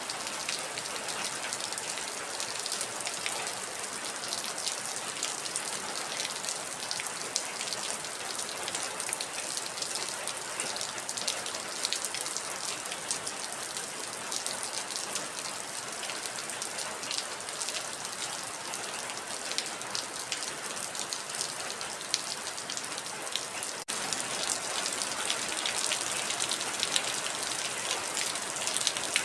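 Heavy rain falling steadily, a dense patter of drops. About four-fifths of the way through there is a momentary break, and the rain comes back slightly louder.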